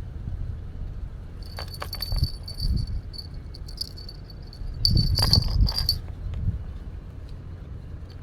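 Small metal objects jingling and clinking in two short clusters, the second and louder about five seconds in, over a low rumble.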